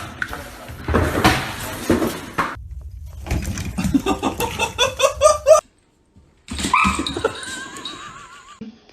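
Pet animal vocalizing: a run of short, rising pitched calls that stop abruptly, then after a brief break a long wavering call.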